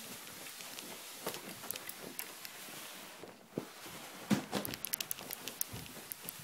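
Laundry basket being pulled along the floor with a child in it: scraping and rustling with scattered clicks and knocks, the loudest knock about four seconds in.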